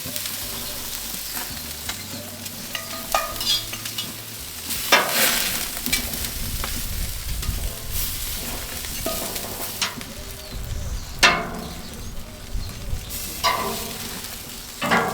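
Food sizzling in hot fat in a cast-iron potjie, with a utensil scraping and knocking against the pot now and then as it is stirred.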